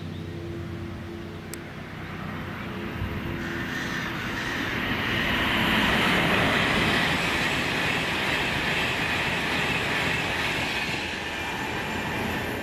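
An electric multiple unit hums steadily as it approaches. Then a Class 390 Pendolino electric train passes at speed: a rush of wheels on rail that builds to a peak around the middle and slowly eases off.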